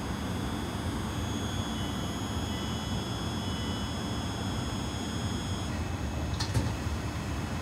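South Western Railway Class 450 Desiro electric multiple unit running past, a steady rumble of wheels on rail with a high steady whine that fades out near the end. A couple of sharp clicks come about six and a half seconds in.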